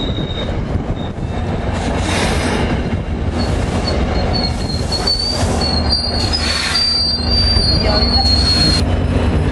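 NJ Transit passenger coaches rolling past and slowing to a stop under a steady low rumble. Their brakes and wheels squeal thinly and high from about a third of the way in, and the squeal cuts off near the end as the train comes to a halt.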